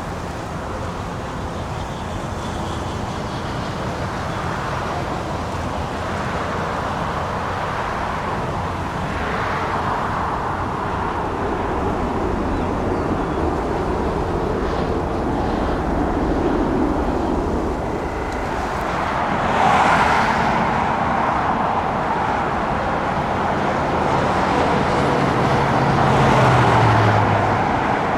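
Steady engine rumble that slowly grows louder, swelling twice in the second half, with a low tone that drops in pitch near the end.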